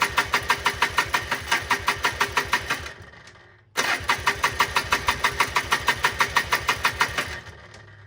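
1995 Polaris Trail Boss 250 ATV engine cranking over without firing, in two bursts of about three seconds each with a short pause between, at an even rate of about seven compression pulses a second. This is a crank-no-start: the engine turns over but does not catch.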